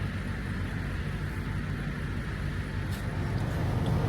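Cab noise of a semi-truck driving: the diesel engine's steady low drone with road noise, and a faint click about three seconds in.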